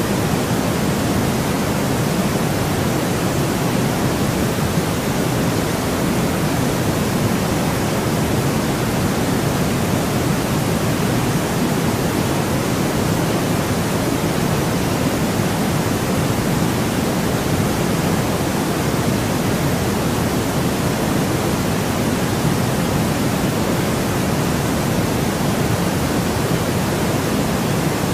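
Steady, unvarying synthetic noise with more weight in the lows than the highs, an even hiss-and-rush like pink noise, played continuously as a sleep sound.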